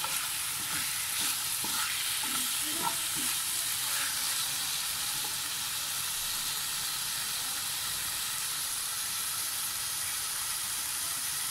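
Chicken mince and chopped onion sizzling steadily in hot oil in a frying pan over high heat, with a wooden spatula stirring them, a few soft scrapes in the first few seconds.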